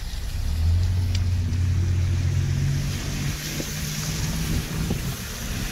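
Car engine heard from inside the cabin, its low hum rising in pitch as the car accelerates away, then easing off, over a steady hiss of tyres on the wet, slushy road.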